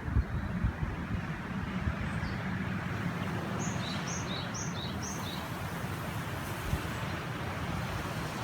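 A river flowing steadily, with wind buffeting the microphone now and then. A little past the middle, a small bird gives a quick run of about four high, two-part chirps.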